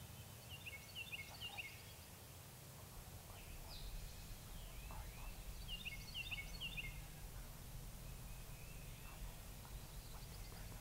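A songbird sings two quick phrases of short, falling whistled notes, about five seconds apart, over a steady low rumble of wind.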